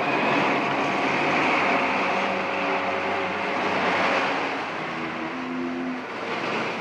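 Steady engine noise of a vehicle, with a few held notes of incidental music under it.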